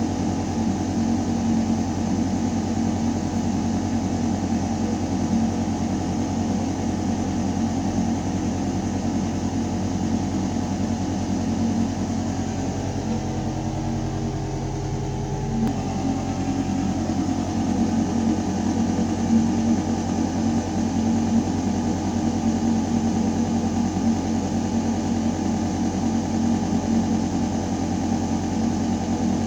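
Building ventilation system running: a steady, low mechanical hum of air moving through metal ducting. For a few seconds near the middle the hum shifts lower and dips slightly, then snaps back suddenly.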